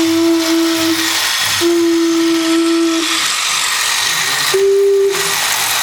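Diesel locomotive horn sounding three held blasts over a loud, steady hiss of air. The first two blasts are on the same pitch, each lasting about one to one and a half seconds. The third, shorter blast comes about four and a half seconds in on a slightly higher pitch.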